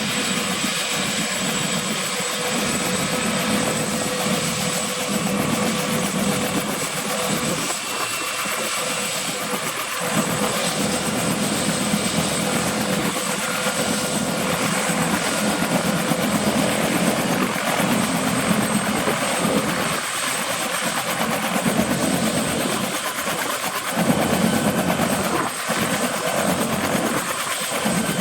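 Bell 212 helicopter's twin turboshaft engines running with the rotor turning: a steady high-pitched whine over dense turbine and rotor noise that swells and eases every few seconds.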